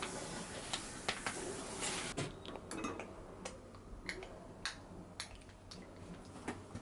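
Kitchen utensils and dishes clinking and tapping in scattered light knocks, after a steady hiss that stops about two seconds in.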